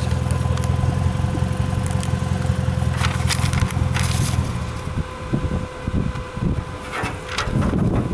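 UAZ off-road vehicle's engine running with a steady low drone that drops away about halfway through into an uneven rumble. Crackling, knocking noises come in short clusters, once before the drone drops and again near the end.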